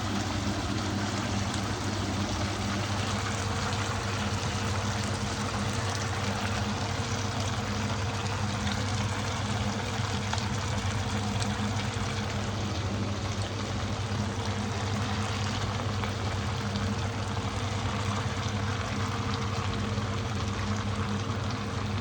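Tomato sauce simmering in a cooking pot, a steady watery hiss with fine crackle and a steady low hum underneath.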